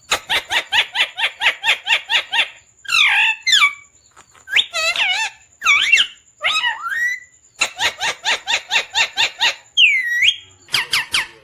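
Pet parrot calling: two rapid runs of short repeated notes, about six a second, with gliding whistled calls between them and a dipping whistle near the end.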